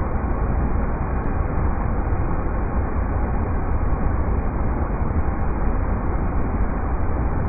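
Steady rushing of river rapids, an even low noise with no breaks or changes.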